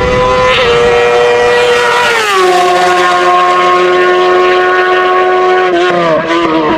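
Hillclimb race car engine running hard at high revs, holding a steady high note; the pitch steps down sharply about two seconds in and dips again near the end.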